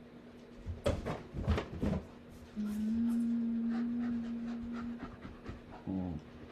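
A quick run of breathy, panting noises about a second in, then a steady low tone held for a couple of seconds, and a short falling voice-like sound near the end.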